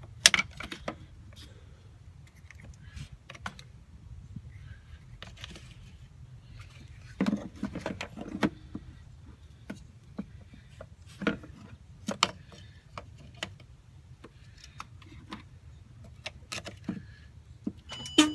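Scattered clicks, clanks and knocks of hands working with a portable jump starter and its clamps at a car battery, over a steady low rumble. The clicks come in loose clusters, with the loudest pair of knocks near the end.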